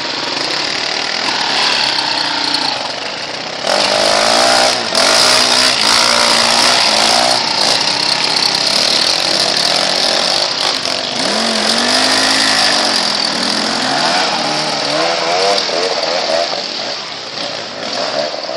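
Motocross bikes' engines revving hard, the pitch rising and falling as they accelerate and shift, louder from about four seconds in.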